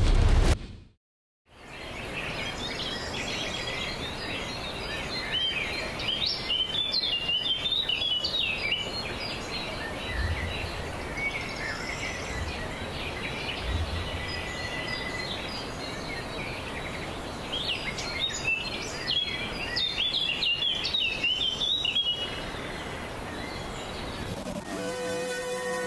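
Small birds chirping in quick, rapid calls over a steady outdoor background noise, after a moment of silence about a second in. Music with sustained tones fades in near the end.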